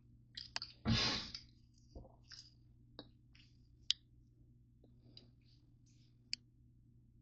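A series of small sharp clicks and light taps, irregularly spaced, with a short rush of noise about a second in and a soft thud about two seconds in.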